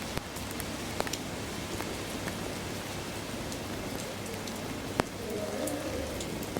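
Pouring rain: a steady hiss of rainfall with scattered sharp taps of drops landing close by, the loudest about five seconds in.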